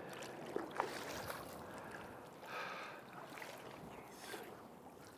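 Choppy lake water lapping and sloshing at the shore around a crouching angler's hands as a released carp swims off, with a few small splashes in the first couple of seconds.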